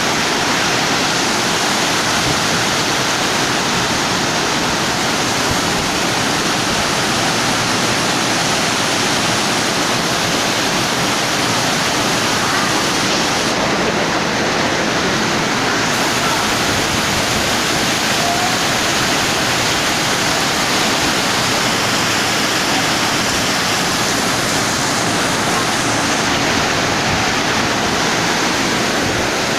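Heavy storm: rain pouring down hard with wind, a dense, steady rushing noise that does not let up.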